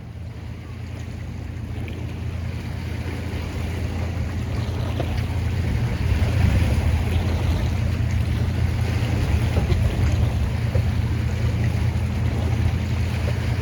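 A boat's engine running with a steady low hum that grows louder over the first several seconds, over wind and water noise.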